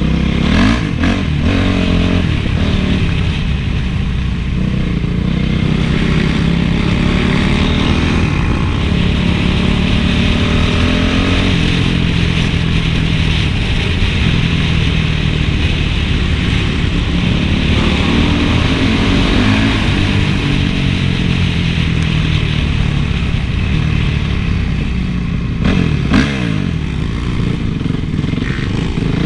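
Honda CRF450 motocross bike's four-stroke single-cylinder engine revving up and down repeatedly as it is ridden, with a couple of short knocks, one about a second in and one near the end.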